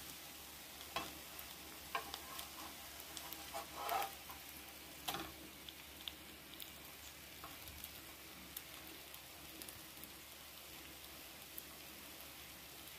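Shredded-vegetable fritters frying in oil in a nonstick pan: a steady soft sizzle with scattered pops. A few louder scraping clatters come about one, two, four and five seconds in as the fritters are turned.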